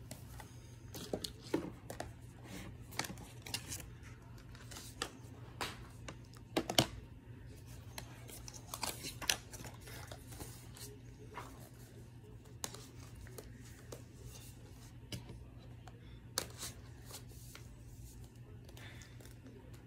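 Hands unwrapping and handling packaging: scattered clicks, tearing and rustling of plastic wrap, with a steady low hum underneath.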